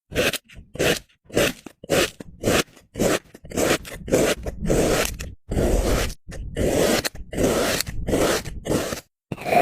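Kinetic sand being scraped and crunched in a quick run of separate strokes, about two a second, the strokes growing longer in the second half before stopping abruptly near the end.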